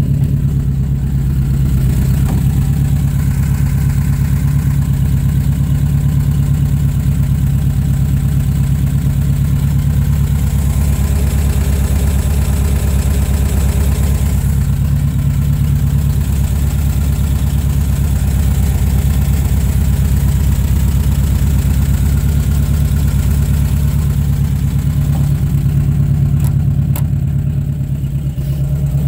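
1970 Volkswagen Type 2 campervan's 1600 air-cooled flat-four engine idling steadily.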